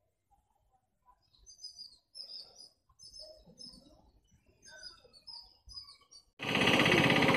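Small birds chirping in short, repeated clusters of high notes. About a second before the end, a loud, steady noise cuts in abruptly.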